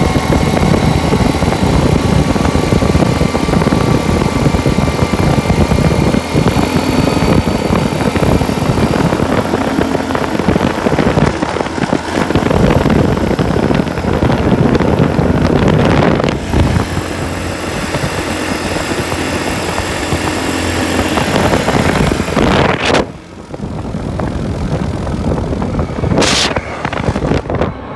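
Off-road vehicle driving over a rough track: steady engine and road noise. It eases off about five seconds before the end.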